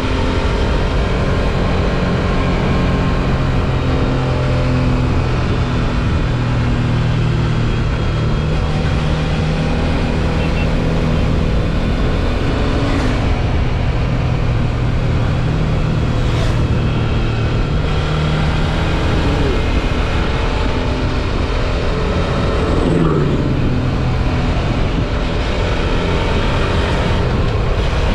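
Suzuki V-Strom 650 XT's V-twin engine running steadily while riding, under a constant rush of wind and road noise. About 23 seconds in, a tone falls sharply in pitch.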